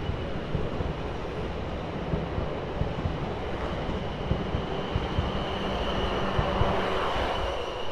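South Western Railway passenger train moving out along the platform: a steady running rumble with a thin high whine over it, swelling near the end as the carriages go by.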